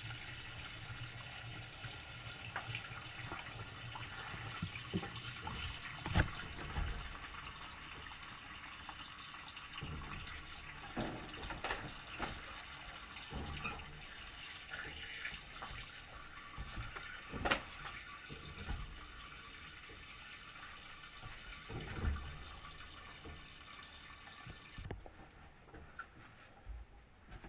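Washing machine taking in water: a steady rush of running water with a few scattered knocks. The inflow cuts off suddenly near the end.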